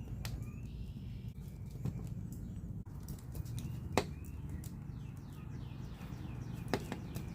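A few sharp clicks from a blade working old oil-based glazing putty off a window sash: the loudest about four seconds in, others near the start and near the end. Faint birdsong and a low steady background hum run underneath.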